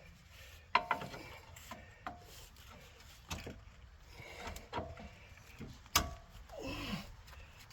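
Irregular metallic clanks and knocks from tools and front suspension parts as the strut is worked loose from the control arm. Some clinks ring briefly, and the loudest clank comes about six seconds in.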